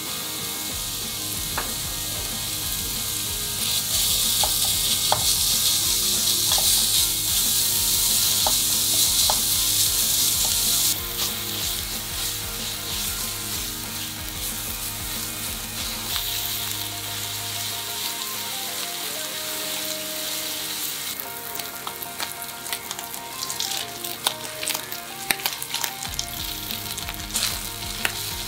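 Ground pork sizzling in hot oil in a nonstick frying pan while a silicone spatula stirs and breaks it up, the sizzle loudest for several seconds after the start. Toward the end, chopped chives and green onion are stir-fried with the pork, and the spatula clicks and scrapes against the pan.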